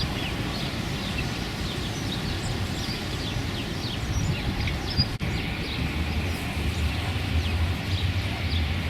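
Outdoor ambience on a windy day: a steady low rumble of wind, with many short, high bird chirps throughout. A brief dropout about five seconds in, after which a steadier low hum joins the rumble.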